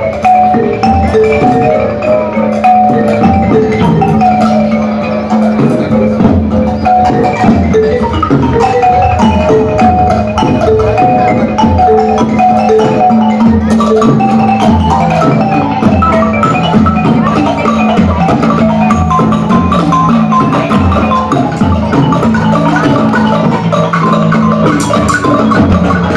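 Percussion ensemble playing, led by marimba: quick runs of short mallet notes over sustained low bass notes, with wood-block-like taps mixed in.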